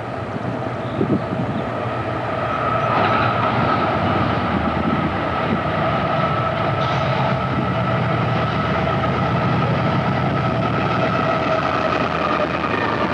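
A train rolling past, growing louder over the first few seconds and then holding steady: a low rumble under a steady high tone.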